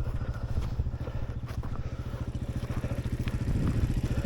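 Yuki Victor 250 dirt bike's engine idling with an even, fast putter, with a few light clicks over it.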